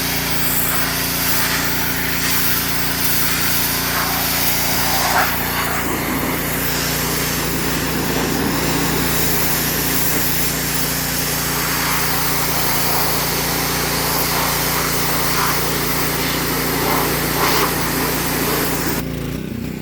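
Pressure washer running with a steady motor note under the hiss of its high-pressure spray from a 15-degree nozzle, stripping rust and old paint off a truck's body. The spray cuts off near the end while the motor keeps running.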